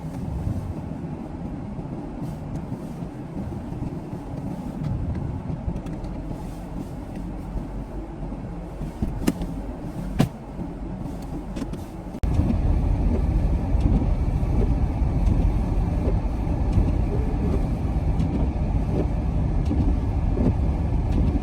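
Steady low rumble of a motor vehicle on the road, with two sharp clicks near the middle. About twelve seconds in, it jumps suddenly to a louder, deeper rumble.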